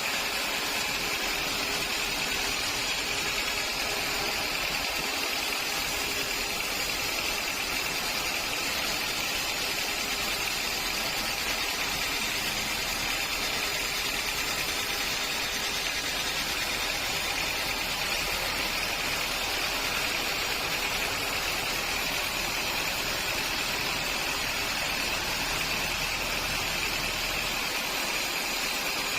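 Sawmill machinery running steadily: a constant mechanical drone with a high hiss and a low hum, no cuts or impacts.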